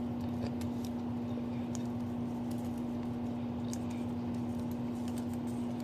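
Steady low hum, with a few faint light ticks and rustles as a small paper pepper packet is handled and shaken over a salad.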